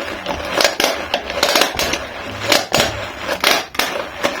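Hand-cranked rotary whisk turning in a jug of pancake batter: a dense, irregular clicking and clattering of the beaters against the jug.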